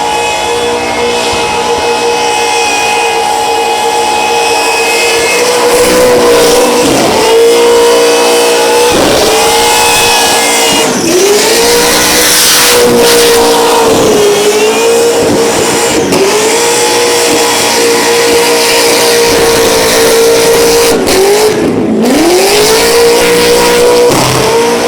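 Supercharged 420-cubic-inch LS V8 held at high revs through a burnout, with a high supercharger whine over the screech of spinning tyres. The revs dip sharply and climb back again and again, and the engine sound cuts off at the very end.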